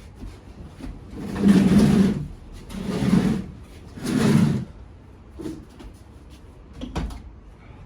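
A large heavy piece being pushed and shifted into place, scraping along a surface three times in quick succession, then a single sharp knock near the end.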